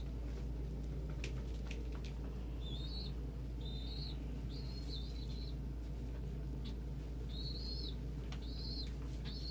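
Short, high bird peeps repeated every second or so from about three seconds in, each rising slightly and then holding, over a steady low hum.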